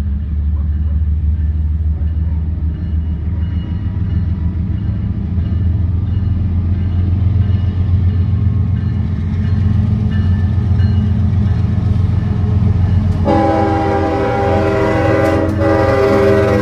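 Diesel locomotive running with a steady low rumble. About three-quarters of the way through, its multi-tone air horn starts sounding and is held to the end.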